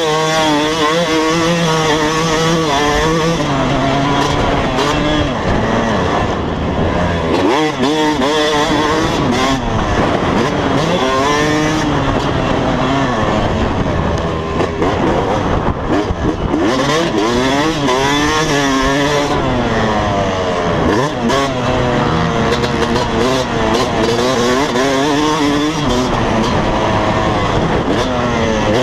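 Motocross dirt bike engine revving hard while riding, its pitch climbing and dropping over and over as the throttle is worked and gears change.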